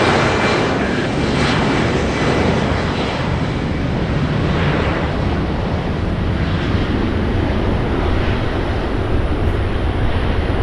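Embraer E190 airliner's twin GE CF34 turbofans, a loud, steady jet noise as the aircraft passes close.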